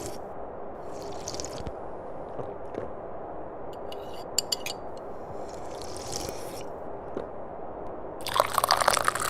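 Tea being sipped and slurped from a cup in several short sips, the loudest near the end, with a few light clicks in between over a steady background hiss.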